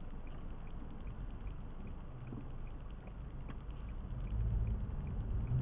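Car cabin noise while driving: a steady low rumble of engine and tyres, growing louder with a low hum about four and a half seconds in as the car pulls away or speeds up.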